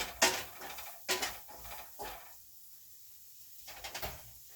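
A few sharp knocks and clatters of kitchen things being handled, about a second apart at first, then a quiet stretch and one more knock near the end.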